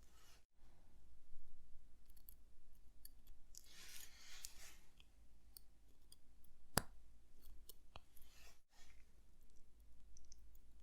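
Faint small clicks and light scraping of metal watchmaking tools on watch movement parts, with a brief scrape about four seconds in and one sharp click about seven seconds in.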